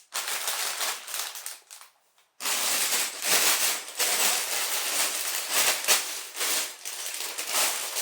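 Sealed plastic LEGO parts bags crinkling and rustling as they are handled and sorted, with a short silent break about two seconds in.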